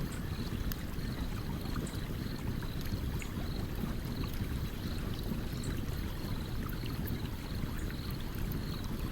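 A stream flowing steadily, with sparse small crackles and pops from a campfire, and a faint high chirp repeating about twice a second.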